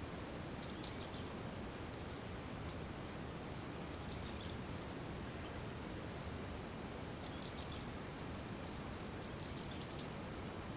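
Steady rain falling, with a small bird giving a short, high call that drops in pitch, four times a few seconds apart.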